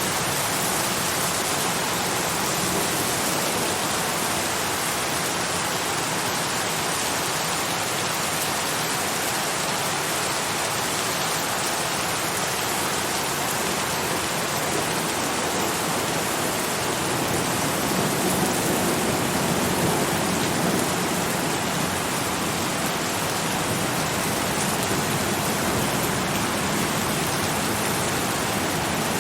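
Steady heavy rain, a dense even hiss of falling drops, swelling slightly in its lower part about two-thirds of the way through.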